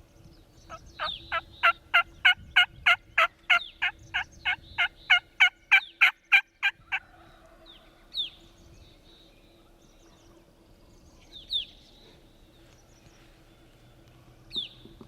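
A long series of about twenty turkey yelps, evenly spaced at roughly three a second, lasting about six seconds. Later a few short, high, falling chirps from a small bird.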